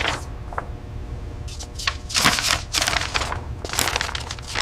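Irregular rustling and crackling handling noise, over a steady low hum.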